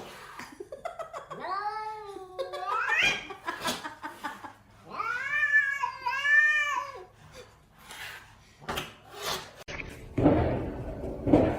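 A cat meowing in long, wavering calls: one rising call near the start, then a run of about four arching calls in the middle. A few clicks and a rustling noise follow near the end.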